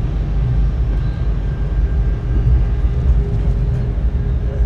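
Sunlander passenger train running at speed, heard from inside the carriage: a steady low rumble of the wheels on the rails with a faint hum.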